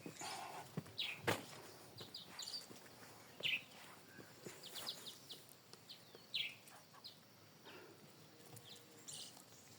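Faint, scattered short bird chirps, with a few sharp clicks, the loudest about a second in.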